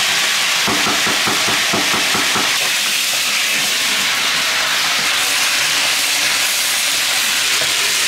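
Chopped cabbage sizzling loudly in hot oil in a wok, a steady hiss that starts suddenly as the cabbage goes in. A spatula scrapes and stirs in quick strokes, about five a second, through the first two seconds or so.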